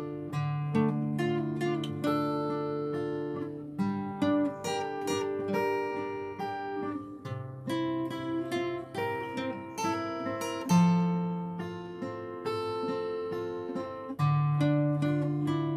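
Acoustic guitar playing an instrumental intro, plucked and strummed chords ringing on with changes every second or two.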